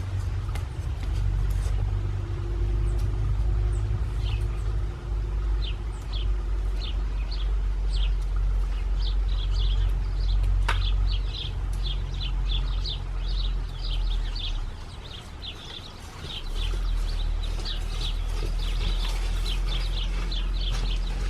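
Small birds chirping in quick repeated short notes, sparse at first and growing busier, over a steady low rumble.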